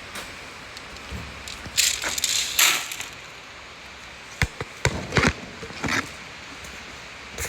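Horse grain poured into a stall feeder in two short rushing pours, followed by a cluster of sharp knocks.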